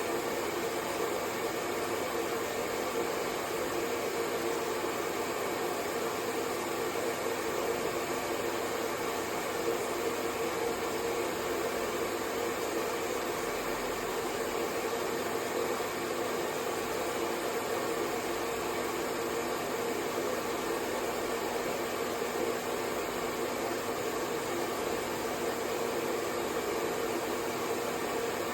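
Hair dryer running steadily: a continuous, even blowing hum with a stronger low-middle tone, unchanging throughout.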